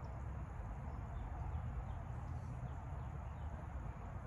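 Faint short bird chirps, several of them in the first three seconds or so, over a steady low outdoor rumble.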